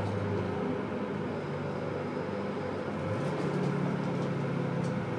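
Diesel train running, heard from on board as a steady low engine and running hum; the engine note shifts about three seconds in.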